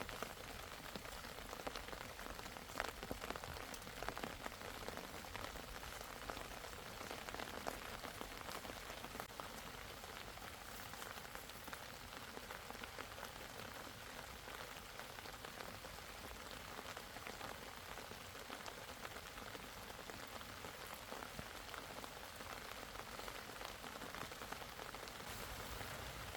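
Steady rain falling, with many sharp drop hits that are most frequent in the first eight seconds or so.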